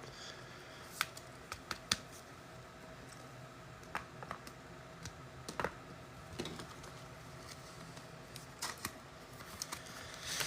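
Faint, scattered clicks and taps of trading cards being handled and shuffled through, about eight spread irregularly.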